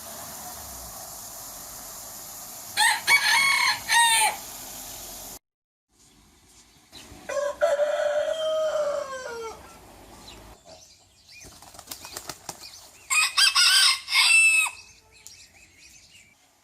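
Rooster crowing three times, each crow from a separate recording. The first comes over a steady background hiss that cuts off, the second falls in pitch at its end, and a quick run of clicks comes just before the third.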